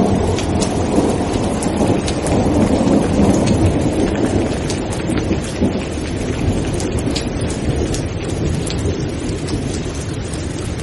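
Thunderstorm: steady rain with a continuous low rumble of thunder and scattered sharp raindrop ticks, easing slightly in loudness toward the end.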